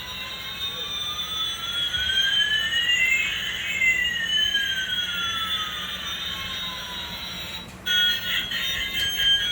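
Synthetic electronic sweep tones: one pitch slowly rises while another slowly falls, the two crossing about halfway through. Near the end they give way abruptly to a stepped, beeping electronic tune.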